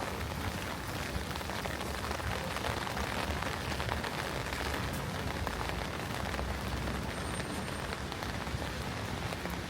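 Steady rain falling, an even hiss scattered with many small raindrop ticks.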